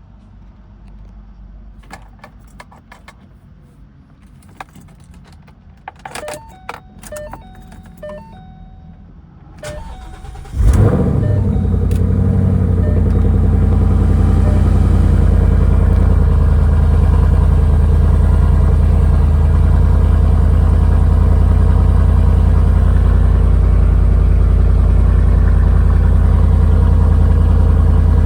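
Keys jingling and clicking, then about ten seconds in the 2014 Ford Mustang GT's 5.0-litre V8 with a Borla exhaust is cranked and fires on a cold start. It flares up loudly, then settles into a steady idle.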